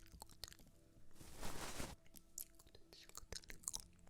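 Close-miked ASMR trigger sounds: scattered soft crisp clicks, with a breathy hiss lasting under a second about a second in.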